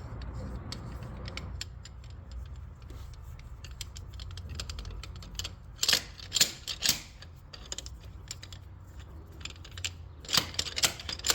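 Metal tools clicking and clanking against a diesel engine while the fuel injector is being removed, with two louder clusters of sharp knocks about six seconds in and near the end.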